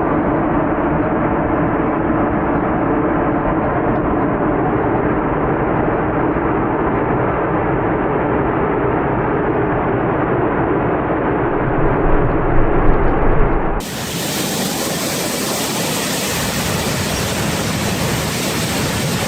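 Steady, muffled rumble and hum recorded by a vehicle's dash cam, swelling slightly near the end of that stretch. About fourteen seconds in it cuts suddenly to strong, steady wind noise on the microphone.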